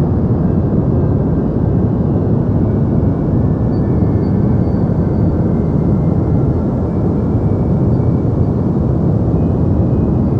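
Deep white noise for sleep: a steady, even hiss weighted toward the low end, heard as a soft rumbling whoosh with little treble, unchanging throughout.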